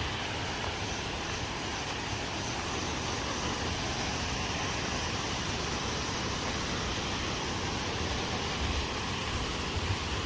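Steady, even rush of a large waterfall, a constant roar with some low rumble underneath.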